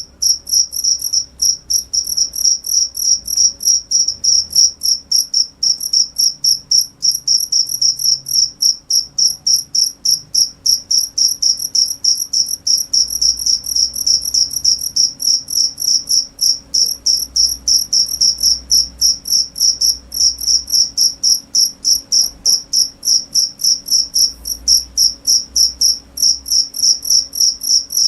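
Cricket chirping steadily: high-pitched, evenly spaced chirps at about four a second that keep on without a break.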